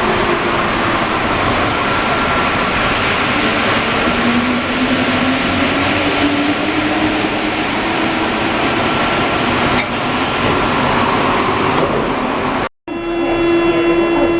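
Alstom NS-74 metro train running, a steady rumble and hiss with a motor whine that rises in pitch. Near the end the sound cuts out suddenly and gives way to a steady pitched tone with several overtones.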